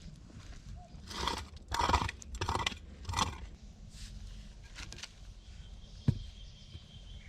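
Four footsteps crunching at a walking pace, followed by two fainter ones and a single sharp knock about six seconds in.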